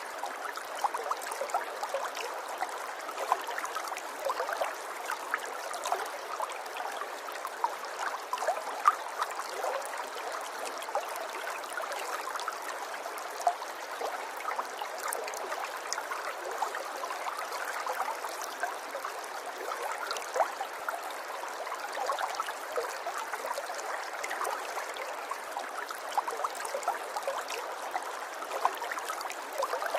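River water flowing over stones, a steady babble with many small splashes and gurgles.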